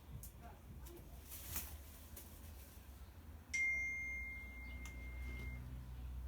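A single high, steady chime-like tone that starts suddenly about halfway through and holds for about two seconds, after a few faint clicks.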